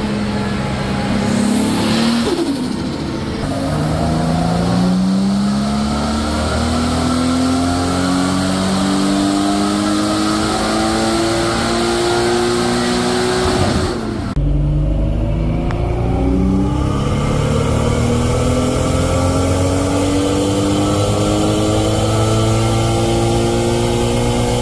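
Turbocharged Nissan RB25 2.5-litre straight-six, fitted with a Garrett G30-770 turbo, making full-throttle pulls on a chassis dyno. Its pitch climbs steadily for about ten seconds, then breaks off sharply about fourteen seconds in and climbs again toward 7,000 rpm.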